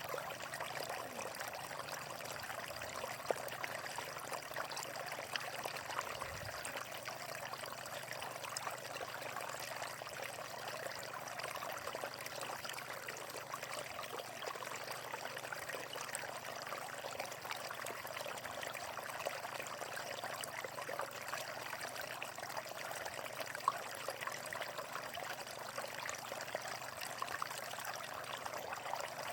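Water flowing steadily over rocks in a stream, a continuous splashing and trickling.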